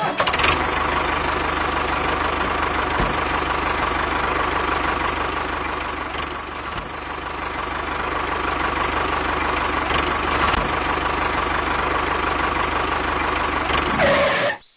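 A motor running steadily, with a slight dip in level about halfway through.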